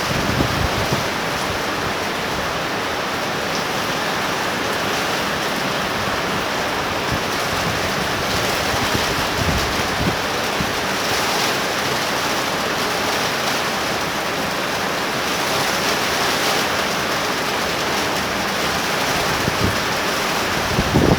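Torrential rain pouring down in a thunder shower: a steady, even hiss with no let-up.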